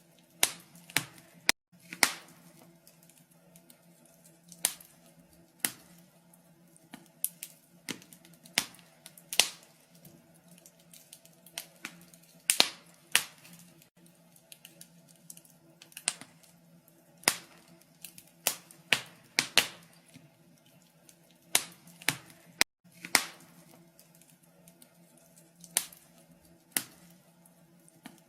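Wood fire crackling in a fireplace: irregular sharp pops and snaps of burning logs, some loud and some faint, over a faint steady low hum.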